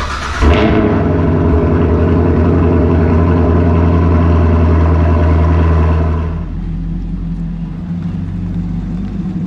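Chevrolet Camaro SS 6.2-litre V8 cold-starting: the engine fires about half a second in and runs at a loud fast idle, then drops to a quieter, steadier idle about six seconds in.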